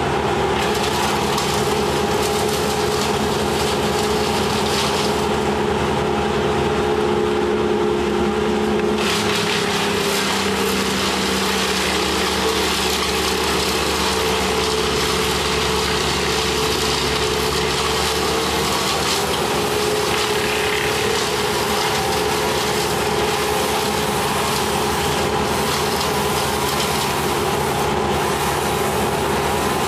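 An engine running steadily under load, its note shifting slightly about ten seconds in as a harsher hiss joins it.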